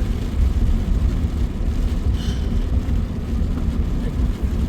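Car road noise heard from inside the cabin while driving through rain and sleet: a steady low rumble of engine and tyres on the wet road, with a brief hiss about two seconds in.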